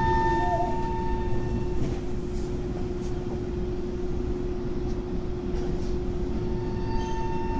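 Tokyo Metro 03 series subway train: a steady hum over a low rumble, with a higher whine that drops out about two seconds in and comes back near the end.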